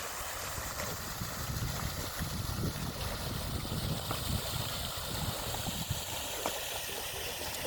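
Water sloshing and gurgling, with a low rumble swelling through the middle and a few light clicks.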